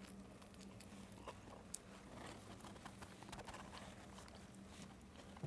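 Very faint chewing of two people eating slices of pizza: scattered small mouth clicks over a steady low hum.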